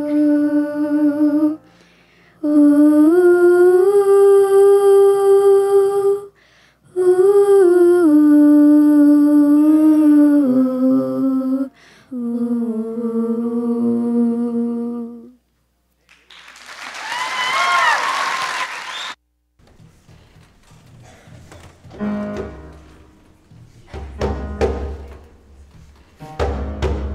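Chorus humming held notes that move in steps from one pitch to the next, for about fifteen seconds with brief breaks between phrases. This is followed by a short noisy burst and then scattered soft knocks and thumps.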